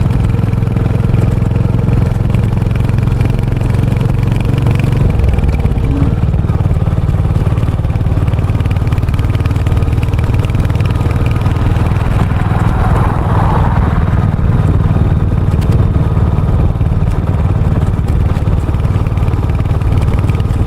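Royal Enfield Hunter 350's single-cylinder engine and exhaust running steadily while riding, with a change in the engine note about five seconds in.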